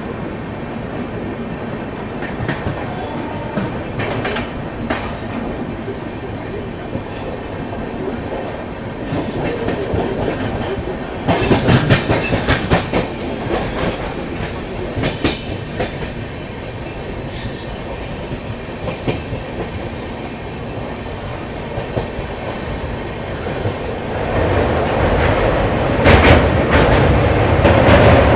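Double-decker express train running on the track, its wheels clacking over rail joints with a louder burst of clattering about halfway through. Near the end the sound grows louder and deeper into a heavy rumble as the train runs onto a steel truss bridge.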